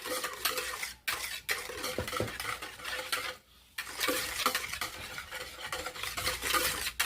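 A spoon stirring and scraping around a bowl, mixing warm water with sugar and yeast to dissolve the sugar. The stirring breaks off briefly about a second in and again around three and a half seconds.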